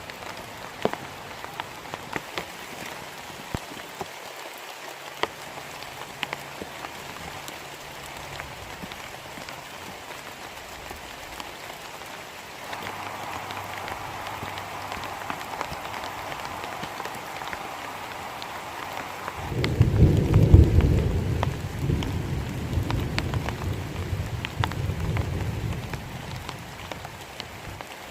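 Heavy rain falling steadily, with scattered sharp drip ticks. About two-thirds of the way through, a long, deep rumble of thunder rolls in for several seconds and is the loudest sound, then fades back under the rain.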